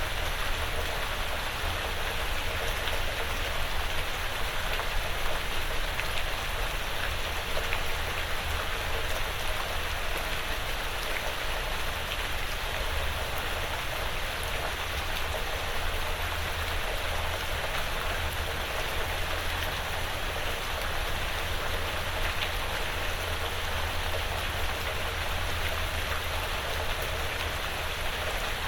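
Light rain falling on a porch roof and the surrounding woods: a steady, even hiss with scattered small drip ticks, over a low steady rumble.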